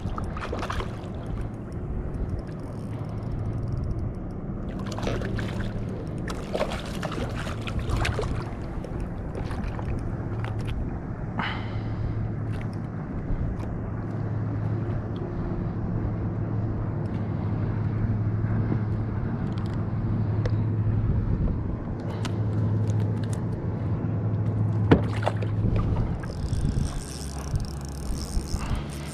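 Steady low hum with wind and water noise around a kayak, broken by a few sharp knocks and clicks.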